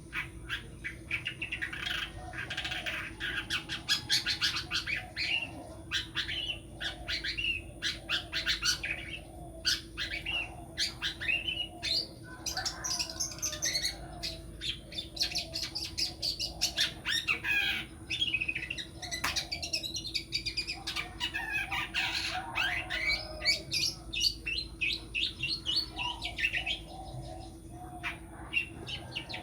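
Long-tailed shrike (cendet) singing a rapid, unbroken stream of quick chirps mixed with harsh, scratchy notes, in runs of a few seconds with brief pauses.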